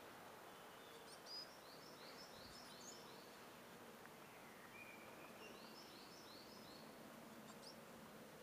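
Faint birdsong over quiet woodland background hiss: small birds singing short runs of high, repeated chirps, twice, with a brief whistled note between.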